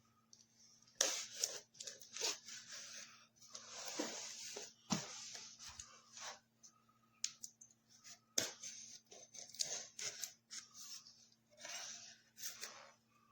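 Irregular rustling, crinkling and tearing of material being handled, likely packaging, with a few sharp clicks, over a faint steady low hum.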